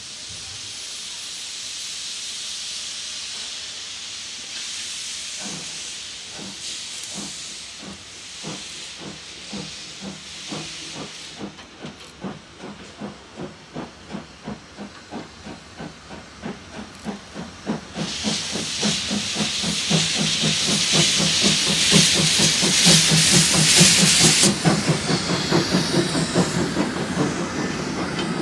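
Steam locomotive pulling away: a steady hiss of steam, then exhaust chuffs that start about five seconds in and grow quicker and louder. A louder blast of hissing steam comes over the chuffs for about six seconds near the end.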